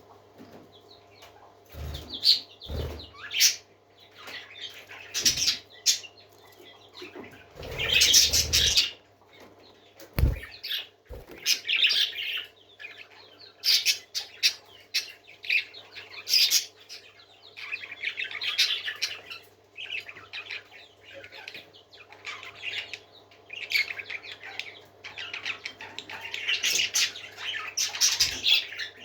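Parrots giving raspy, hissing calls in repeated bursts of about a second, with a few low thumps, the loudest about eight seconds in.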